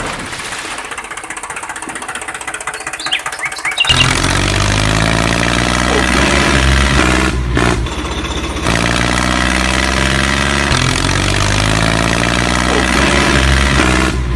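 A small motor whirs steadily, then about four seconds in a much louder tractor engine sound takes over and keeps running, its pitch wavering up and down, with two brief dips.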